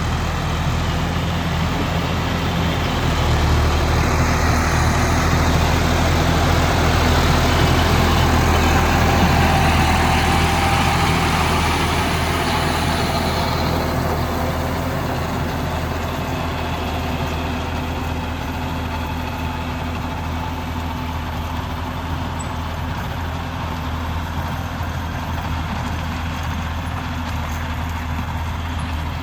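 John Deere 5310 tractor's three-cylinder diesel engine running steadily. It grows louder about three seconds in and eases back down about thirteen seconds in.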